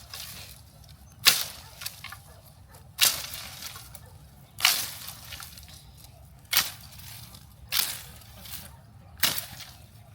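A series of sharp hits, six of them about one and a half to two seconds apart, each with a short hissing tail that fades over about half a second.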